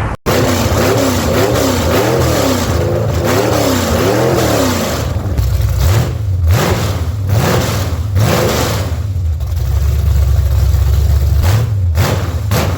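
Ford 351 Windsor small-block V8 running on a test stand and being revved up and down in quick repeated swells. It then settles into short, sharp throttle blips over a steady low idle.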